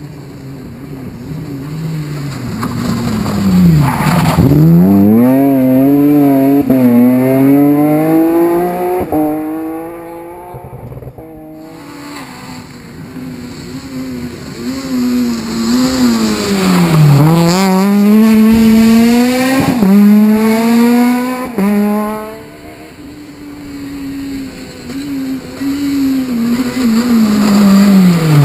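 Rally cars driving flat out past, engines revving high and climbing through the gears, with short sharp cracks between shifts. They swell loud, fade, and another swells up twice more.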